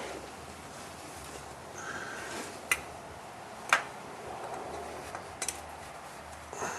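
A few sharp clicks and taps, the loudest about halfway through and a quick double near the end, with light scraping, as a spin-on oil filter is wound onto the tractor engine's filter mount by hand.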